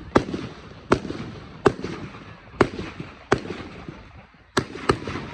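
Fireworks bursting overhead in a rapid string of sharp bangs, about seven in five seconds, with crackling and rumbling echo between the reports and two bangs close together near the end.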